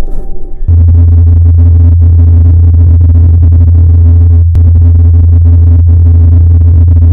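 NASA's Ingenuity Mars helicopter in flight, its twin rotors making a steady low hum. The hum sets in just under a second in and briefly drops out about four and a half seconds in.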